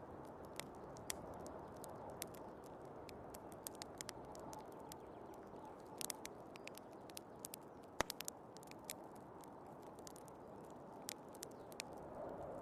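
Wood fire crackling, with irregular sharp pops and one louder snap about eight seconds in, over the steady rushing wind of a snowstorm.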